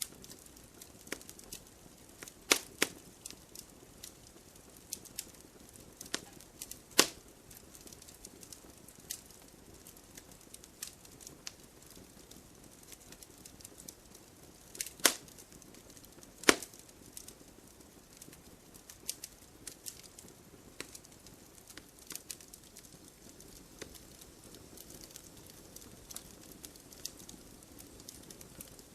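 Campfire crackling: a stream of small crackles over a faint hiss, with a few loud sharp pops from the burning wood scattered through.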